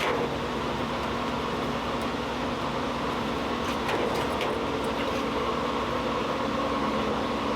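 Blacksmith's forge running steadily: a constant rushing noise with a steady hum, and a few faint clicks around the middle.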